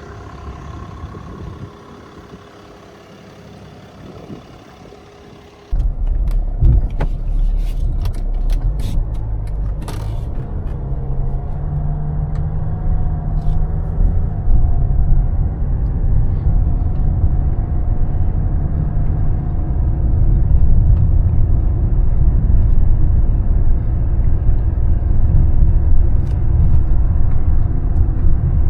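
Mercedes-Benz E320 CDI six-cylinder turbodiesel running quietly at first. About six seconds in the sound jumps abruptly to a much louder low rumble, with several sharp clicks over the next few seconds. The rumble then carries on and grows slowly louder as the car drives.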